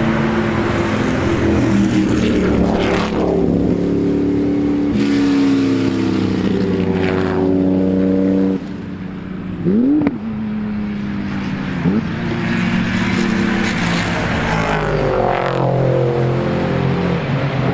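Racing car engines at high revs passing the trackside one after another, their pitch stepping up through gear changes and swooping down as each car goes by. Two short, sharp revs come near the middle.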